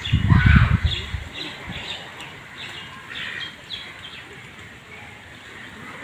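A loud, low rumble in the first second, then short scattered chirping calls from birds.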